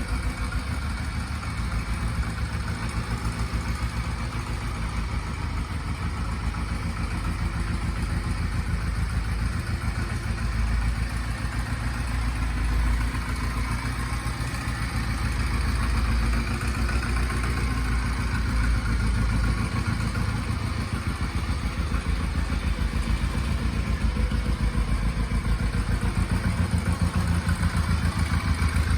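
Stock 2001 Honda Rebel 125's single-cylinder four-stroke engine idling steadily with an even, fast pulsing exhaust. It grows somewhat louder toward the end.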